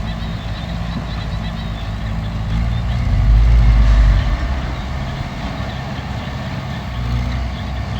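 Heavy machinery's diesel engine running steadily, swelling louder for about a second around three seconds in, then settling back.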